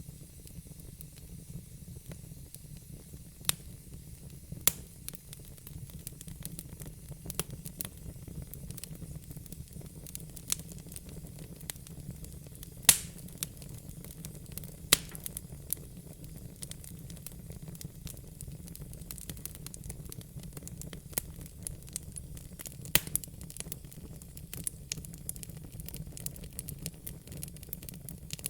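Wood burning in a fire pit, crackling, with sharp pops scattered irregularly throughout (the loudest about 13 seconds in) over a low, steady rumble.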